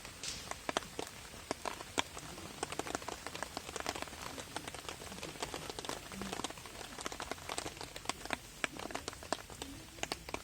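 Rain falling on a camping tarp: a steady hiss with many irregular sharp drop hits.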